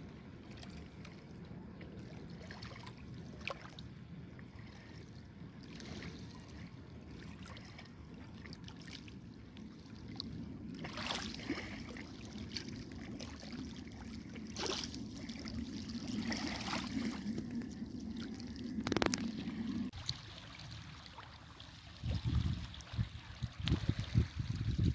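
Outdoor water sounds: water moving and splashing over a steady low rumble, with a few sharp splashes in the middle and a sudden change about twenty seconds in.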